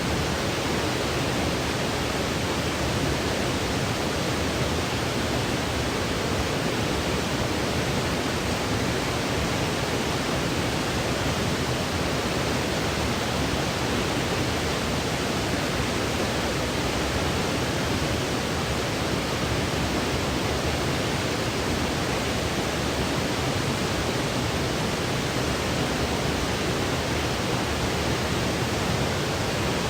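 Steady generated white noise: an even, unbroken hiss that spreads across the low to high range and does not change.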